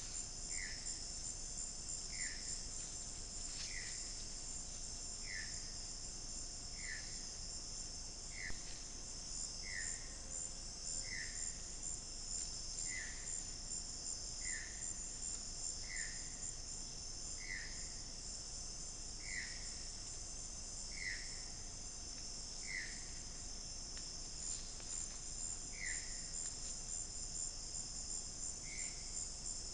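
Steady, high-pitched chorus of crickets and other insects in the rainforest. Through it, an unseen animal gives a short call over and over, about once every second and a half.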